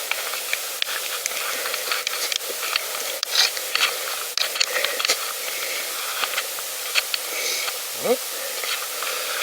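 Pedal bicycle being ridden: a steady hiss of wind and tyre noise with scattered clicks and ticks from the bike. About eight seconds in there is a brief rising squeak.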